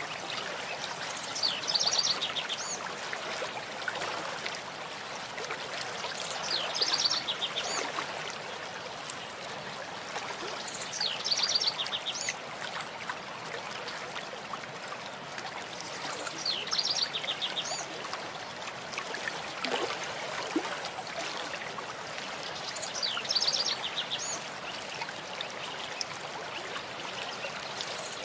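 Stream of water flowing steadily, with a songbird singing the same short, rapid, high trilled phrase five times, about every five seconds.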